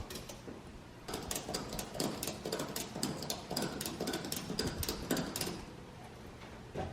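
A rapid, irregular run of small clicks and taps that starts about a second in and stops about five and a half seconds in.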